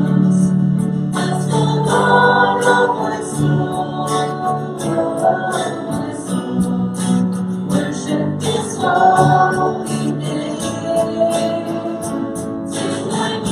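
Church worship band playing a song, with group singing over guitar accompaniment.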